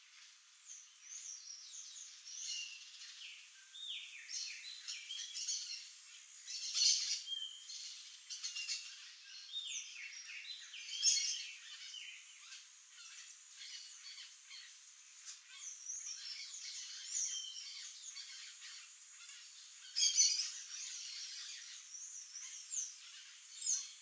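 Birds calling: a steady run of many short chirps and calls, with louder clusters about seven, eleven and twenty seconds in.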